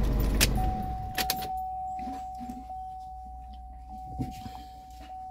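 A vehicle's engine running with a steady low hum, then shut off less than a second in after a click. A couple more clicks follow, and a single steady electronic tone comes on as the engine stops and keeps sounding.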